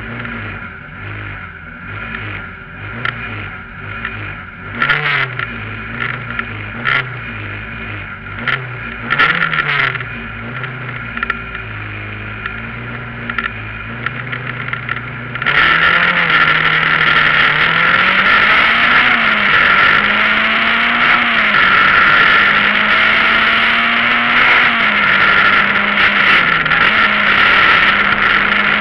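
Citroën Saxo VTS rally car's 1.6-litre four-cylinder engine, heard from inside the cabin, blipped repeatedly on the start line, with a few sharp clicks. About halfway through it launches at full throttle and pulls hard, its pitch climbing and dropping through several upshifts.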